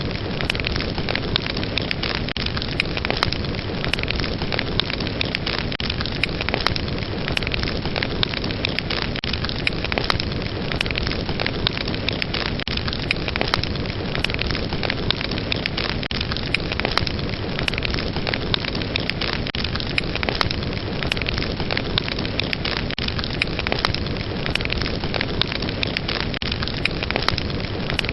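Fire burning: a steady rushing hiss of flames with frequent, irregular sharp crackles and pops.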